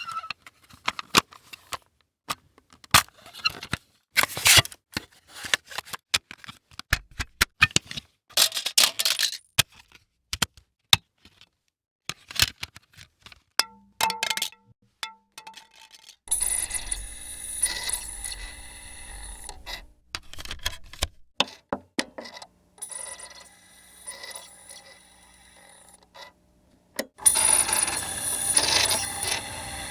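A run of separate technology sound effects: many short clicks and small mechanical clatters in the first half, then three longer stretches of steady mechanical noise with a high whine.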